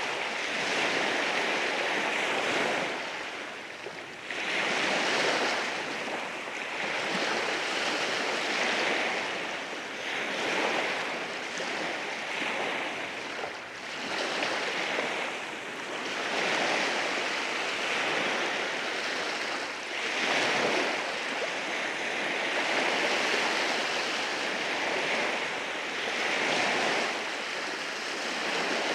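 Waves washing in over rocks, a continuous rushing and hissing of water that swells and falls back every few seconds.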